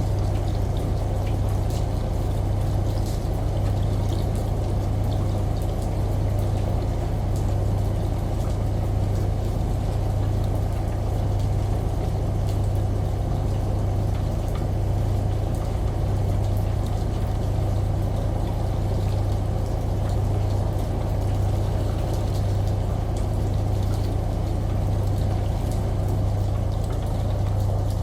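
Washing machine running with a steady low hum and a slight regular throb, mixed with a continuous wash of running, pouring water.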